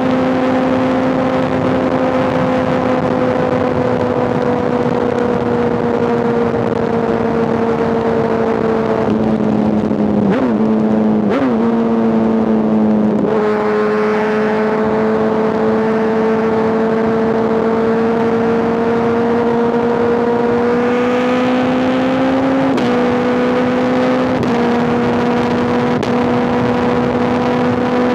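A 2005 Honda CBR1000RR's inline-four engine, heard through an SC-Project exhaust, running under way at a fairly steady speed. Its pitch dips and picks up again a couple of times near the middle and steps slightly about two-thirds of the way through.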